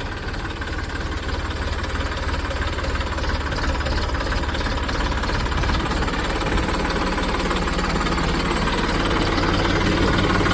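Tractor's diesel engine running with a steady low knocking beat, growing gradually louder as the tractor is driven slowly forward.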